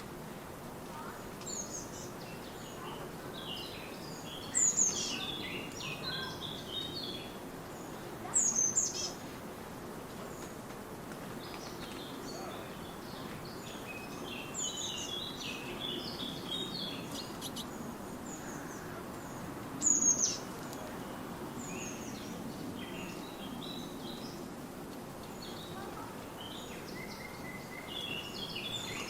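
Small garden birds chirping and twittering at a feeder. Three times, a loud, sharp call drops steeply in pitch and stands out above the chatter.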